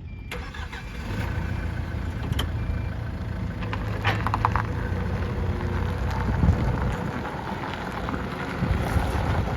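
Forklift engine running steadily, with a few metallic clicks and clanks about two and four seconds in.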